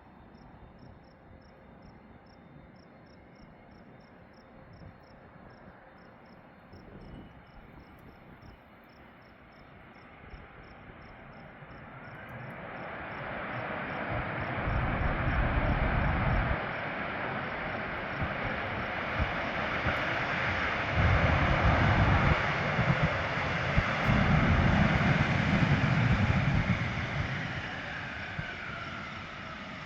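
Allegiant Airbus A320 jet landing: the engine noise swells from a faint hiss to loud over a few seconds and stays loud with a deep rumble, then eases off near the end with a whine falling in pitch. Crickets chirp steadily in the background.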